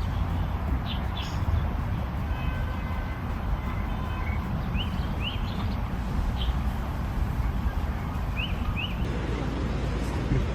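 Steady low outdoor rumble with birds chirping briefly several times.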